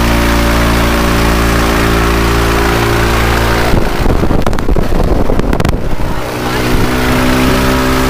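Bajaj Pulsar 150 single-cylinder petrol engine driving a wooden propeller, running at a steady speed. About four seconds in, the sound turns rough and noisy for two seconds before the steady engine note returns and starts to rise near the end.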